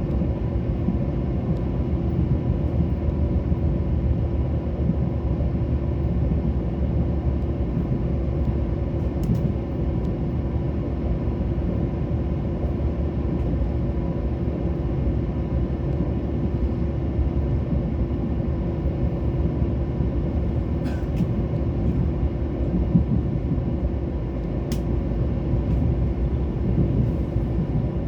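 Mugunghwa-ho passenger train running on the track, a steady rumble heard from inside the carriage, with a faint steady tone and a few brief faint clicks.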